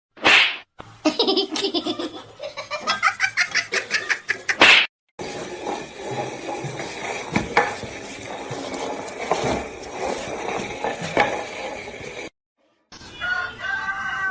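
Laughter in quick repeated pulses for a few seconds. It is followed by a noisier stretch with scattered knocks, and near the end a wavering pitched sound.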